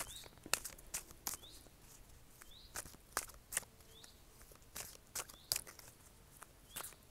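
A small bird repeating a short rising chirp about every second, over sparse sharp clicks and taps at irregular intervals.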